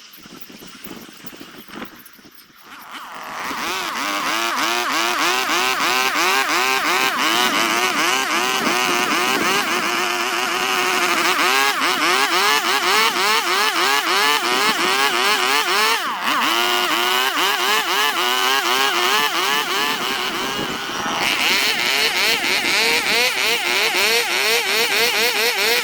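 Handheld rotary power tool carving wood, starting about three seconds in; its pitch dips and recovers again and again, several times a second, as the bit is pressed into the wood.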